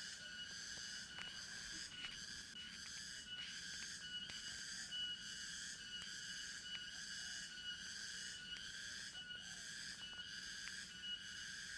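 A chorus of forest insects calling in a steady pulsing rhythm, about two pulses a second, with a thin, high whistle-like tone running through it.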